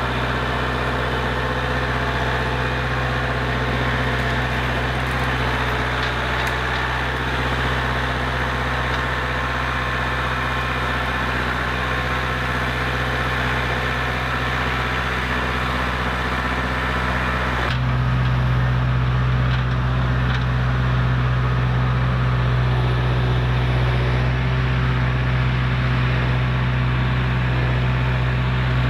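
Kubota L47 tractor's diesel engine running steadily. About 18 seconds in, the sound changes abruptly: the low engine hum grows louder and the higher hiss falls away.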